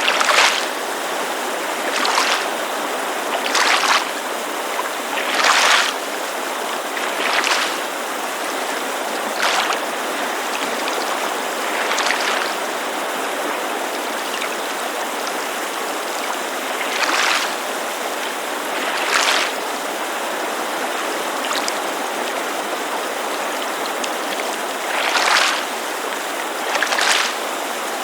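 Small waves of lake water lapping against the shore in short splashes every couple of seconds, with a pause in the middle, over the steady rushing hiss of a creek.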